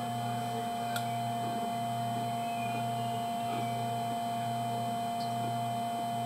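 Sewer inspection camera equipment giving off a steady electrical whine over a low hum that pulses about once a second, with a faint click about a second in.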